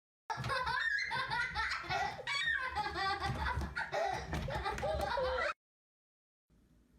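People laughing, for about five seconds.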